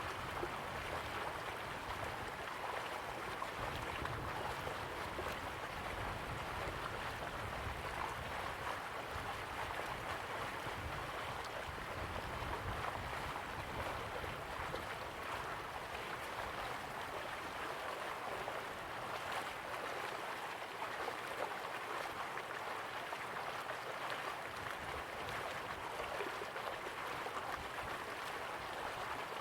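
River water flowing slowly, a steady even rushing with a soft low rumble underneath.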